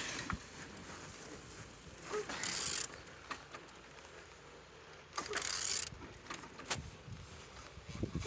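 A20DTH engine being turned over by hand: short rasping, swishing bursts of rotation a few seconds apart, with scattered mechanical clicks. It turns freely.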